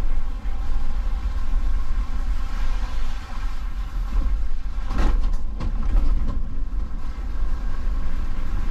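Truck driving, a steady low rumble of engine and road noise, with a short rattle about five seconds in.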